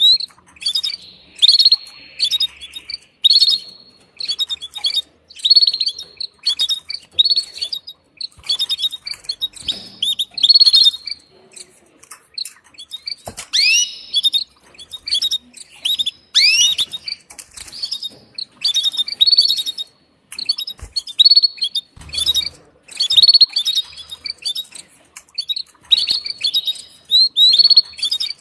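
Female canary calling: short bursts of high chirps every second or two, with a couple of louder sweeping notes about halfway through. A mating call to the male.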